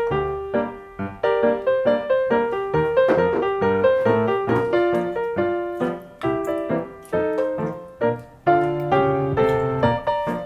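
Background music: a solo piano playing a light, steady melody of separate notes.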